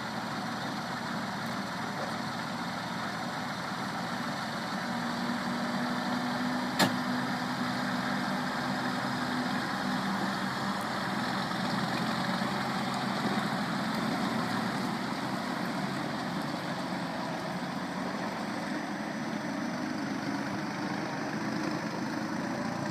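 Tractor engine running steadily, driving a hydraulic solar-panel cleaning brush, with one sharp click about seven seconds in.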